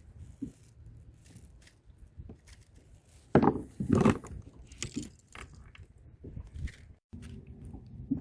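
Handling noises on a kayak: scattered clicks, scrapes and knocks, with two louder knocks about three and a half and four seconds in, as a freshly caught fish and tackle are handled.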